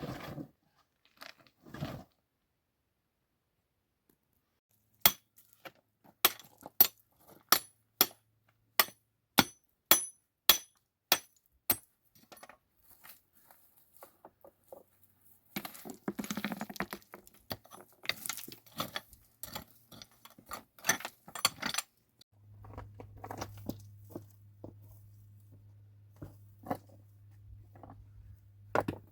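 A series of sharp, ringing clinks of hard objects striking each other, about one and a half a second for several seconds. Then a stretch of busy scraping and rustling handling. Near the end a low steady hum sets in, with scattered clicks.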